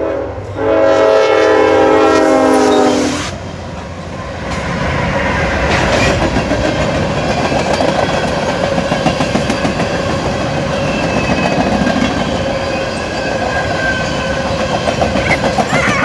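Norfolk Southern locomotive's air horn sounding one long chord blast for about three seconds. The train then rumbles and clatters steadily past the crossing, its wheels clicking over the rail joints.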